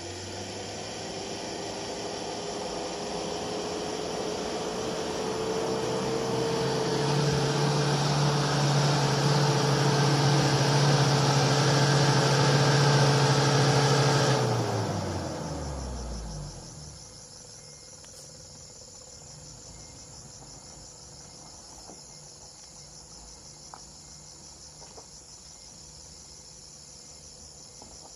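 A car's engine labouring up a muddy gravel slope, growing louder with a rising note as it climbs. About halfway through the revs fall away and the engine goes quiet, leaving a steady chirring of insects.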